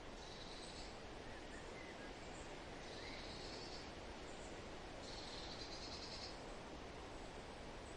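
Forest ambience: a steady rustling wind with a high buzzing trill heard three times, each about a second long, and a few faint bird chirps in between.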